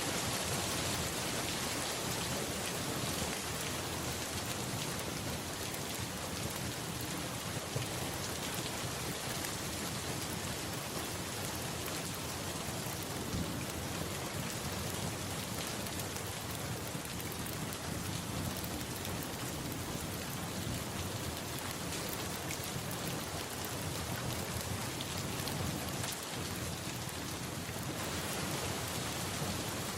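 Steady rain falling, an even unbroken hiss that holds at the same level throughout.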